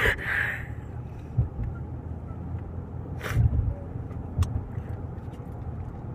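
A car's engine runs in a steady low rumble, heard from inside the cabin, with a few brief knocks scattered through it.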